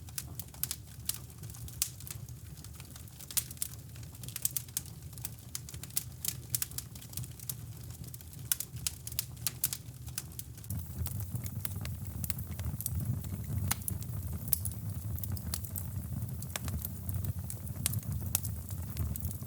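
Fireplace fire crackling with many irregular sharp pops and snaps, over a steady low brown-noise rumble that gets louder about halfway through.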